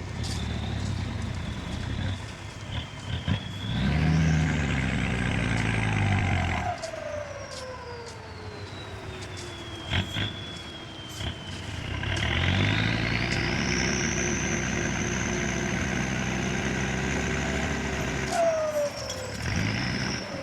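Diesel engine of heavy earth-moving machinery revving up twice, about four seconds in and again about twelve seconds in, each time holding high and then winding down. A high whine rises and falls with the revs, and there are a few sharp clanks.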